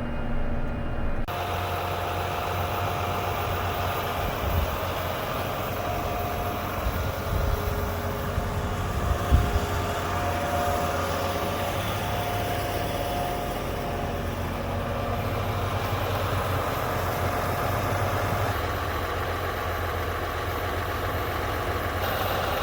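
A vehicle engine running steadily, with a sudden change in the sound about a second in.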